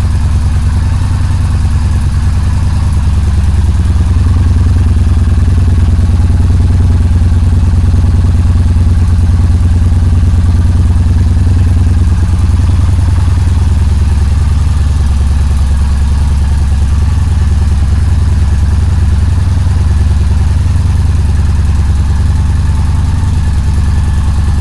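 2014 Yamaha Bolt's air-cooled V-twin idling steadily, warming up after its first cold start following a winter in storage.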